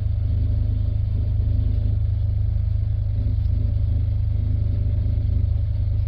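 Diesel engine of the river tug RT-178 running steadily at constant speed: a loud, even, deep drone that does not change.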